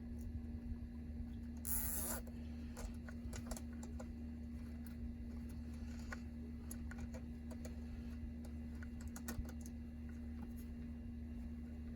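Hands fastening a plastic cable tie around the seat wiring: scattered light clicks and rustles, with one short rasp about two seconds in. A steady low hum runs underneath.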